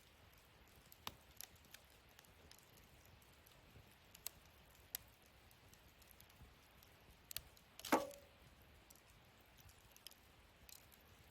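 Wood fire crackling in a fire-pit stand: faint, scattered sharp pops, with one louder crack about eight seconds in.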